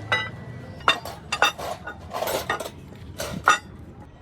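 Metal parts clinking and knocking against each other: several sharp clinks with scraping in between.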